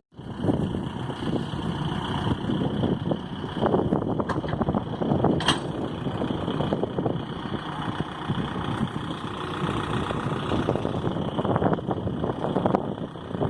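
Tractor engine running steadily, with one sharp click about five and a half seconds in.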